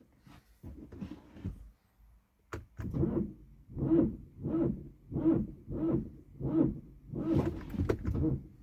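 BMW F30's starter motor cranking the engine very slowly, in a labouring whir that surges about one and a half times a second, after a sharp click about two and a half seconds in. The engine does not catch: the crank-no-start, slow-crank fault.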